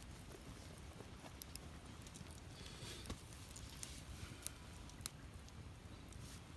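Wood fire burning, crackling with scattered sharp pops about once a second over a low steady rumble.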